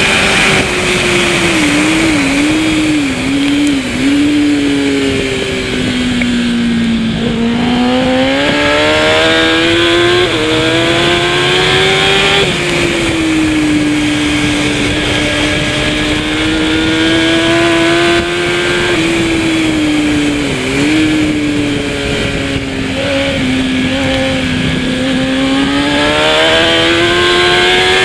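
Kawasaki ZX-10R superbike's inline-four engine running hard at race pace. Its note wavers and falls over the first several seconds, climbs and holds, and dips briefly a few more times at gear changes.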